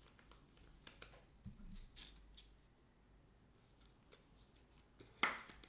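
Faint handling of trading cards: soft scrapes and small ticks as cards are slid and set down, with one sharper click about five seconds in.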